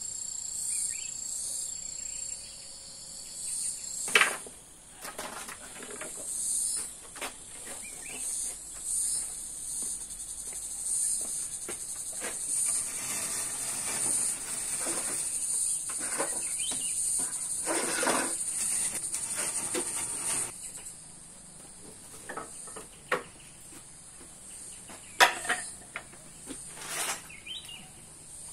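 Insects chirring in a steady high buzz that fades out about 20 seconds in, with scattered sharp knocks; the loudest knocks come about 4 and 25 seconds in.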